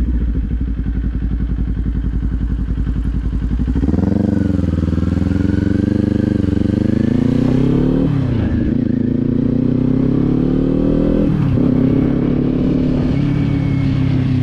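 Kawasaki Z400's parallel-twin engine ticking over at low revs, then pulling away: about four seconds in the revs climb, the pitch drops twice at upshifts and climbs again after each.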